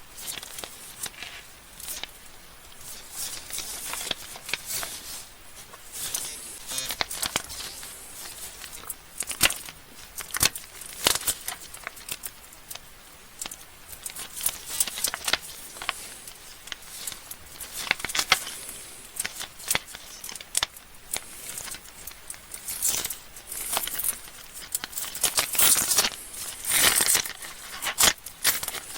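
Plastic candy wrappers being crinkled and torn open by hand, a run of sharp crackles and rustles with denser crinkling near the end.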